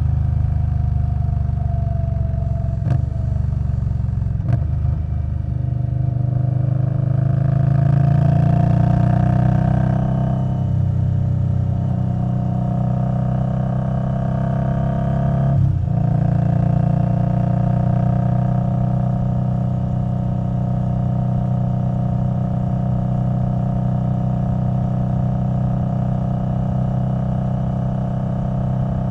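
2021 Indian Scout Bobber Twenty's 1133 cc V-twin running through a V&H Twin Slash exhaust under way. The revs dip briefly as gears change, twice in the first five seconds and again about halfway through, with stretches of rising revs between, then hold steady in a cruise.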